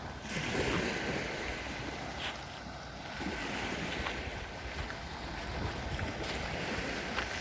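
Wind rumbling on the microphone over the steady wash of small sea waves on the shore.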